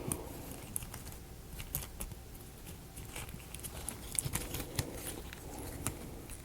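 Scattered light clicks and taps of thin wooden model-kit pieces being handled and pushed together.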